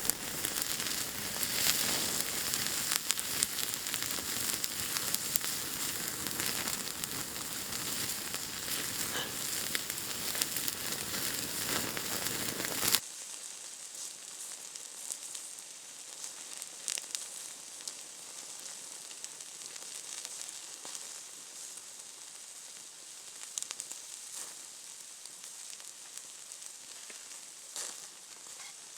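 Food sizzling loudly in a hot pan, with a dense crackling hiss. About 13 seconds in it cuts off suddenly to a quieter, steady sizzle with scattered pops and crackles.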